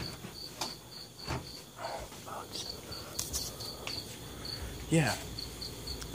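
Cricket chirping steadily outdoors, short high chirps about three a second, with a few scattered knocks.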